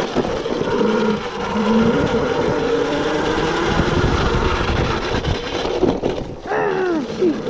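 Electric dirt bike ridden along a dirt trail: a motor whine that rises and falls with the throttle over steady riding noise. The noise dips briefly near the end, then the whine glides in pitch.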